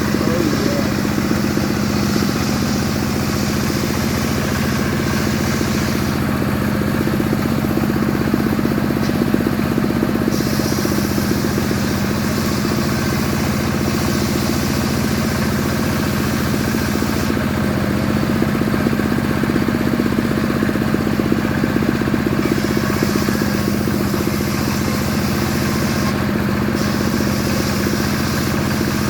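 Stihl two-stroke chainsaw running steadily at high speed while cutting wood, its engine note holding level throughout.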